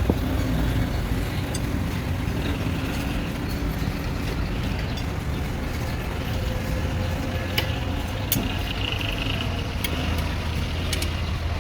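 A steady low mechanical drone, with a few sharp metallic clicks and taps in the second half.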